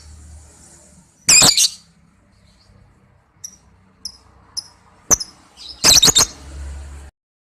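Lovebird calling: a loud, shrill screech about a second in, a few short high chirps, then a longer run of rapid shrill screeches near the end, played as a lure call to set other lovebirds singing.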